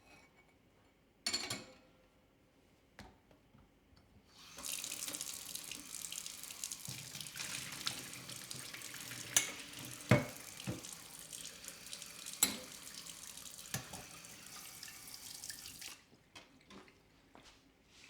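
Kitchen tap turned on, water running steadily into the sink for about eleven seconds with a few sharp knocks in the sink, then shut off. A single knock comes before the water starts.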